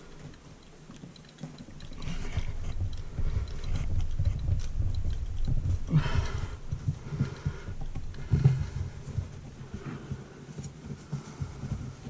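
Garbage disposal sink flange being pushed down and worked back and forth into plumber's putty in the sink drain opening: irregular low thumps and knocks, with a few brief scrapes, starting about two seconds in.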